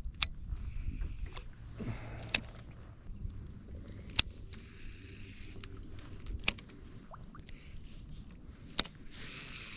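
Kayak being paddled, with a sharp knock about every two seconds and a brief swish of water near the end.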